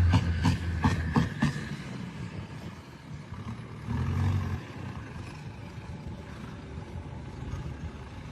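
An engine running, with a quick run of knocks over its low hum in the first second and a half and a short louder low rumble about four seconds in.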